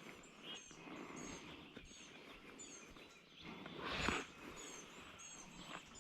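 A small bird chirping in quick, high notes repeated about every half second, over faint rustling. A louder burst of noise comes about four seconds in.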